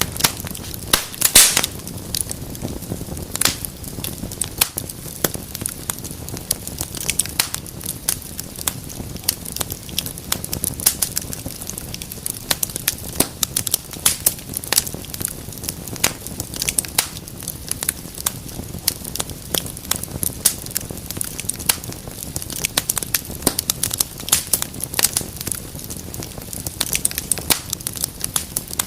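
Wood fire burning in a fireplace: a steady low rush of flames under constant crackling, with sharp pops several times a second and a louder snap about a second and a half in.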